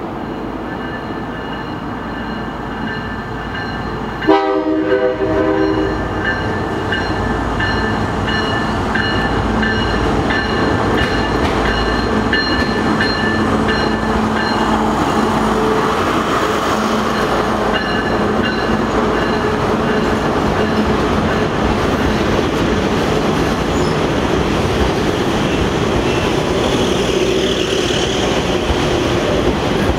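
Metro-North BL20GH diesel locomotive approaching with its engine running, sounding one short horn blast about four seconds in. It then runs past close by, pulling a train of passenger cars, with their wheels clattering over the rails.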